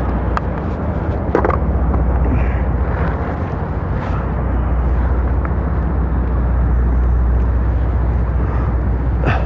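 Large passenger head boat's engines giving a steady low rumble as the boat passes close by, mixed with a continuous rushing noise.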